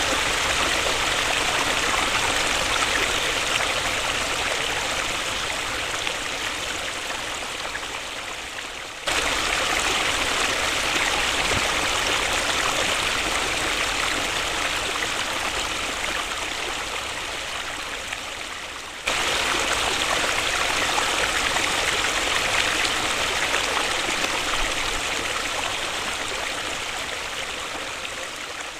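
Waterfall: a steady rush of falling water, strongest in the upper-middle pitches. The level sinks slowly and then jumps back up suddenly, twice.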